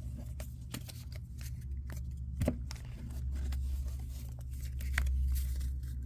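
Trading cards being handled and shuffled: scattered faint clicks and rustles, with a soft knock about two and a half seconds in, over a steady low hum.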